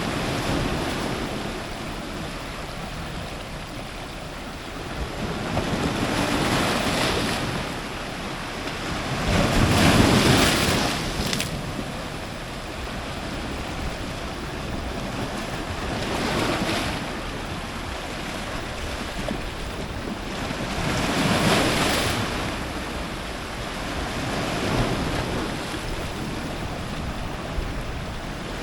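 Ocean surf breaking on rocks close to the waterline: a continuous wash of water with waves surging in every five or six seconds, the largest about ten seconds in.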